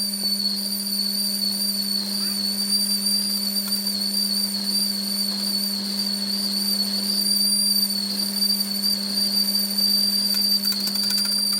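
A steady, high-pitched whistling whine that wavers slightly in pitch, over a steady low hum, with a quick patter of clicks near the end.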